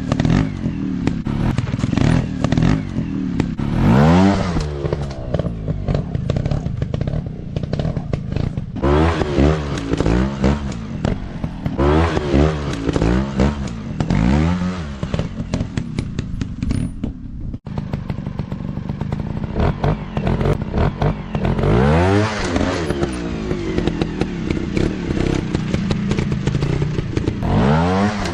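Small dirt bike engines revving up and dropping back again and again, with the pitch rising and falling in short bursts of throttle. There are knocks and clatter in between.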